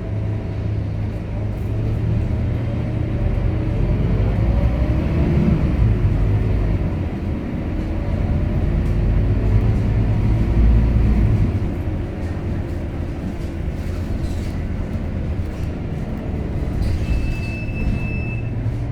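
Scania K230UB city bus's diesel engine running under way, a deep steady rumble. Through the first half the engine note rises and falls several times as it pulls away and changes gear, then it settles. A short high beep sounds near the end.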